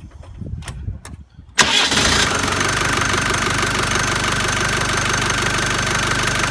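Land Rover 300Tdi 2.5-litre four-cylinder turbodiesel, already warm, starting up. After a couple of clicks it catches at once about a second and a half in and settles into a steady idle.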